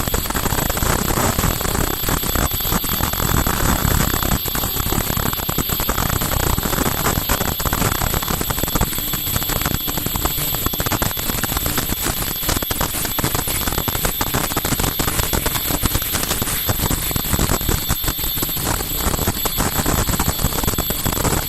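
Cap-making machine running, with a fast, even mechanical clatter and a steady high whine.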